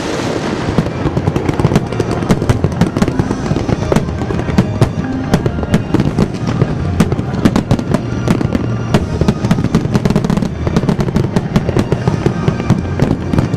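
Fireworks going off: a dense run of sharp cracks and pops, several a second, with music playing underneath.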